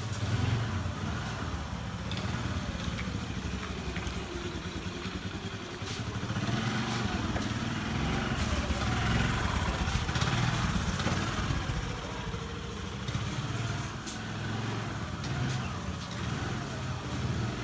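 Petrol scooter engine running continuously, swelling louder for a few seconds near the middle: it has finally started after sitting unused.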